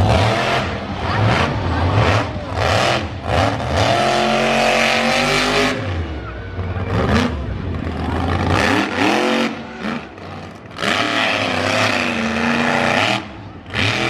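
Monster truck engine revving hard in repeated bursts, its pitch climbing and dropping again and again, with brief lulls between bursts.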